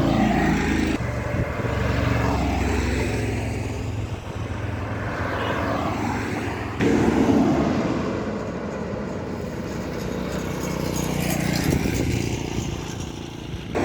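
Highway traffic: bus and truck engines running, with vehicles sweeping past at speed. The sound changes abruptly twice, about a second in and about seven seconds in.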